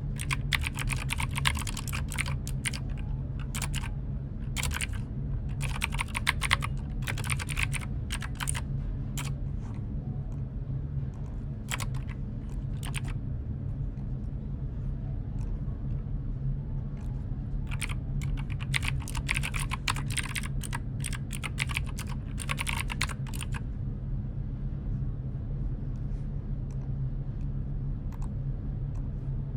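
Computer keyboard typing in bursts of rapid keystrokes, broken by a pause with a few single key presses, and stopping about two-thirds of the way through. A steady low hum runs underneath.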